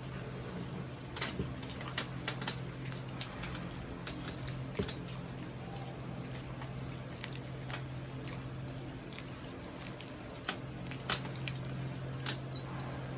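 Close-up eating sounds of someone chewing crispy pata (deep-fried pork knuckle): wet, squishy mouth sounds broken by scattered sharp crunchy clicks at irregular times. A steady low hum runs underneath.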